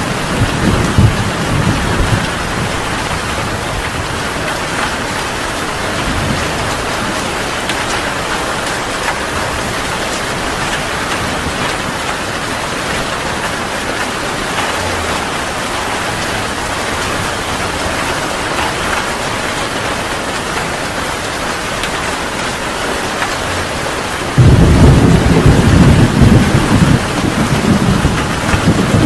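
Heavy rain pouring steadily, with thunder rumbling low in the first couple of seconds. A louder peal of thunder breaks in suddenly about 24 seconds in and rolls on to the end.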